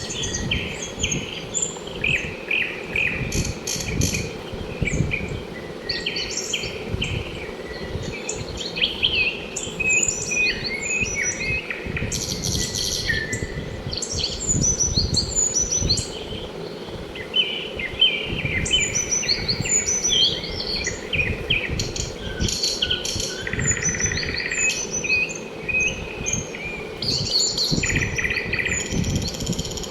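Several birds chirping and trilling over one another in a dense, continuous chorus, with a steady low background rumble underneath.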